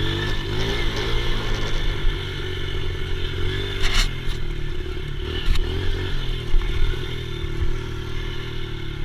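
Dirt bike engine running, its revs rising and falling, with a few sharp knocks.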